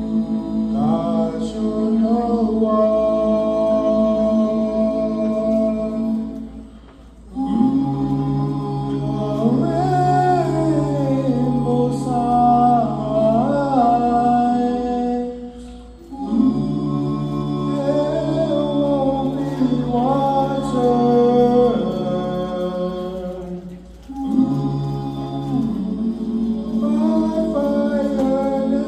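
Layered voices singing sustained chords a cappella, with a gliding melody line on top. It moves in repeating phrases of about eight seconds, each set off by a short dip in level.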